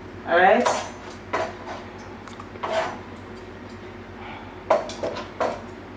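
Kitchen clatter: a handful of separate knocks and clinks of dishes and utensils on a worktop, one of them ringing briefly.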